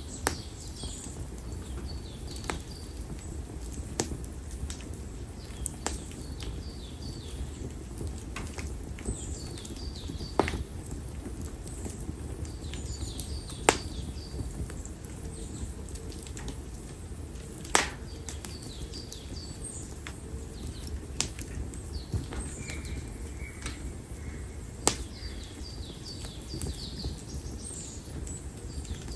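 Konara oak firewood burning in an open fire, crackling with about nine sharp separate pops over a low steady rumble. Small birds chirp in short high phrases throughout.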